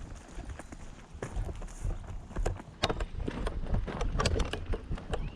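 Footsteps moving quickly through undergrowth: an irregular run of crunches and snaps, louder in the second half.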